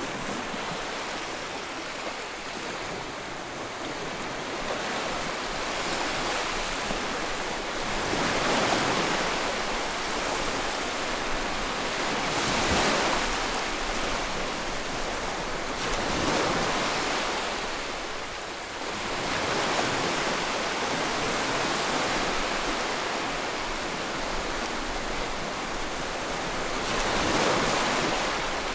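Ocean waves breaking and washing onto the shore, a continuous surf rush that swells with each wave every few seconds.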